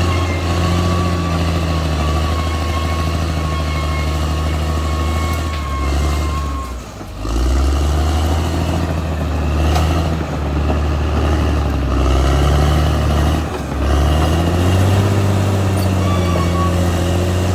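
Caterpillar D6R XL bulldozer's diesel engine running hard as the dozer works, its pitch shifting with load. The sound drops away briefly about seven seconds in and again shortly before the end.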